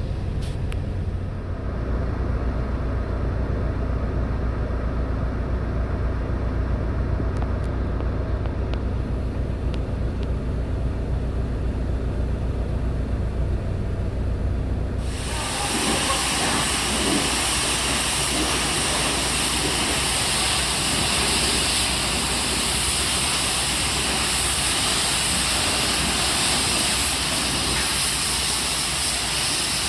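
A steady low rumble, then about halfway in a loud hiss of high-pressure water spray starts suddenly and keeps going as a semi-truck is washed down.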